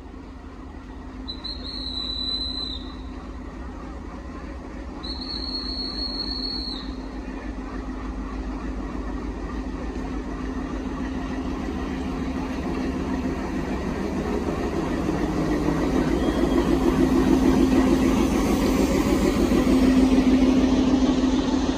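Diesel locomotive pulling a passenger train slowly past at close range, its engine running with a steady low drone, then the coaches rolling by, growing louder toward the end. Two high-pitched whistle blasts, each about a second and a half long, sound in the first seven seconds.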